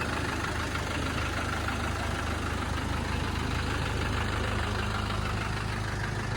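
1997 Land Rover Defender pickup's engine idling steadily.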